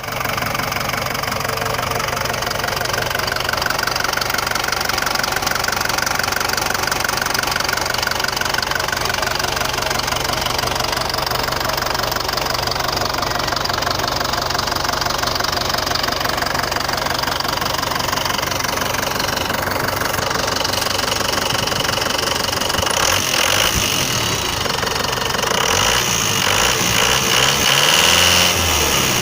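Ford Transit 'Krab' 2.5-litre diesel engine running steadily at idle. Over the last few seconds the revs rise and fall.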